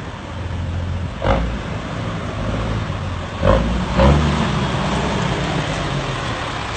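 Truck engine running steadily, with three sharp knocks: about a second in, and twice more between three and a half and four seconds in.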